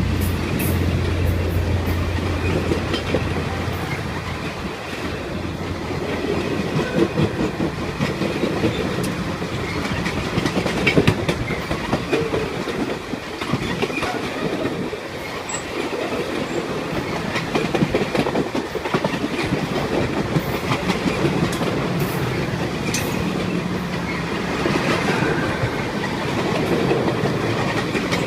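Railroad cars of a long train rolling past at speed, steel wheels clacking steadily over the rail joints. A low engine hum is heard in the first few seconds and then drops away.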